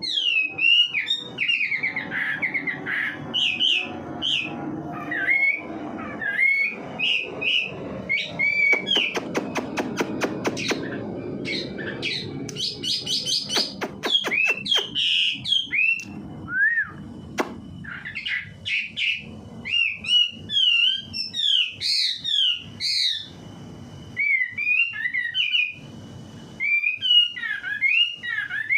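Wambi songbird singing energetically in a continuous stream of short chirps and gliding whistled notes, with a rapid run of clicking notes about ten seconds in and a couple of held thin whistles later on.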